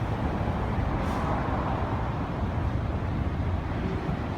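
Wind buffeting a handheld microphone outdoors: a steady, low rumbling noise with gusty flutter.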